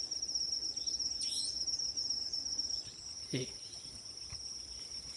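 Crickets trilling at night: a steady, high, pulsing trill that eases off a little about three seconds in, with other short insect chirps over it. A single sharp knock about three and a half seconds in.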